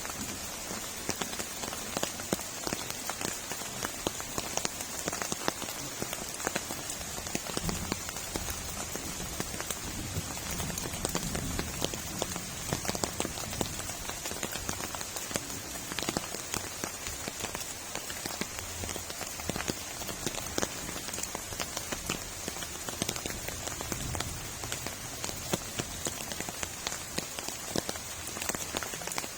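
Heavy rain falling steadily: a constant hiss with many sharp individual drop hits throughout.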